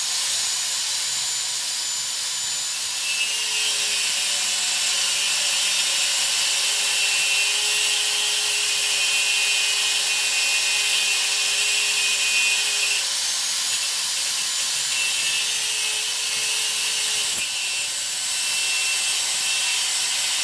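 Electric power saw cutting through steel stock, giving a steady harsh hiss. The motor's whine drops in pitch as the blade bites about three seconds in and rises again about thirteen seconds in.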